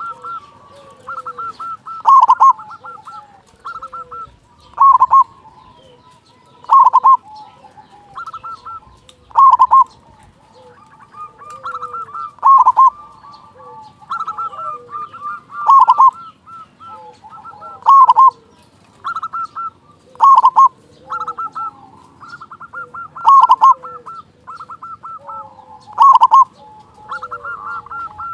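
Zebra dove (perkutut) singing steadily, a local bird with a big voice. Each phrase is a quick run of short notes ending in a loud rolling coo, and it repeats about every two to two and a half seconds.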